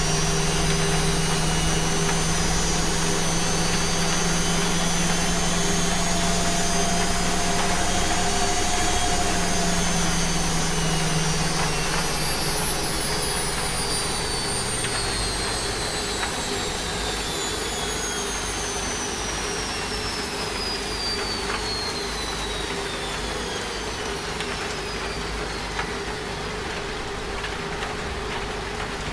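Washing machine on its spin cycle winding down: a steady hum cuts out about twelve seconds in, and the motor's high whine then falls steadily in pitch as the drum slows, over an even hiss.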